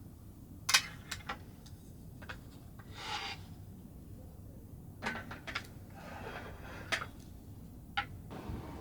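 Close-up handling sounds: scattered clicks and knocks, the sharpest about a second in, with brief rubbing or scraping twice, over a steady low rumble.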